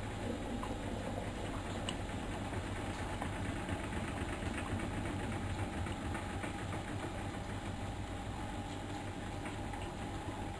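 Miele Novotronic W 2200 front-loading washing machine running a 95 °C boil wash: a steady motor hum with the drum turning, even throughout.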